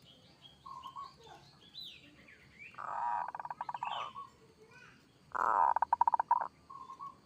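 Zebra dove (perkutut) cooing song: two loud phrases, each rolling into a rapid stuttering trill, with short single coos before and after. Smaller birds chirp faintly and higher in the background.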